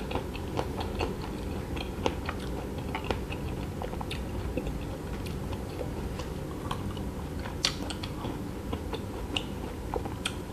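Close-miked eating of a chocolate-coated ice cream bar with a crunchy KitKat wafer coating: biting and chewing, with irregular small crunches and mouth clicks.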